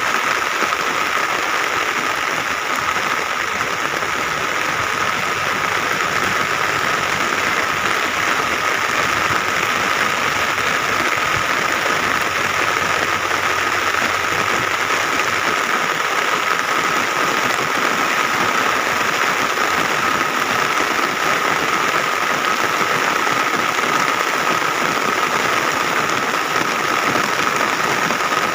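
Steady rain falling, with a tractor's diesel engine running under it and a steady high-pitched hum throughout.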